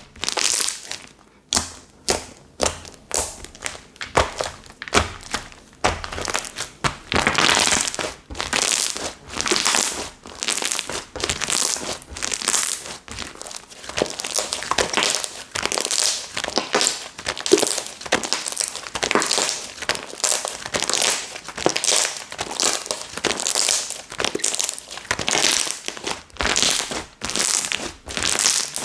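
Slime being squeezed and worked by hand, a steady run of crackly, squishy bursts about one or two a second.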